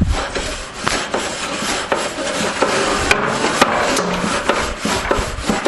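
Wire brush scrubbing a barbecue grill: steady back-and-forth scraping of wire bristles on the metal grate, with many small clicks and rattles.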